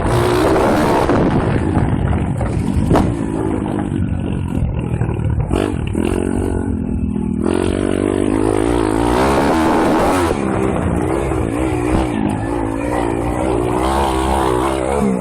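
M2R KX140 pit bike's 140cc single-cylinder engine revving up and down as the bike is ridden over rough ground, easing off briefly about halfway through, with a couple of sharp knocks from bumps.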